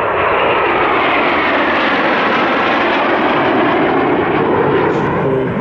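BAC Strikemaster's single turbojet engine as the jet flies past, a loud, steady rushing noise whose tone sweeps slowly as it passes.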